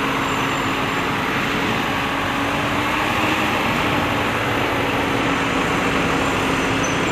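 Truck crane's engine running steadily, with a constant low hum over an even noise.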